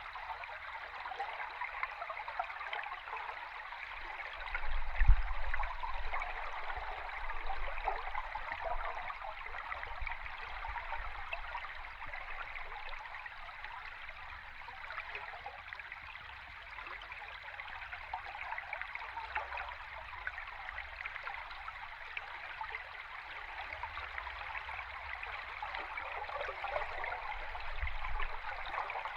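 Flowing river stream recorded underwater: a steady fizzing, crackling rush of water, with a low thud about five seconds in and a softer one near the end.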